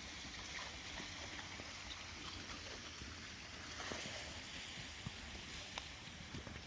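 Snowmelt floodwater running and trickling steadily, with a few faint ticks.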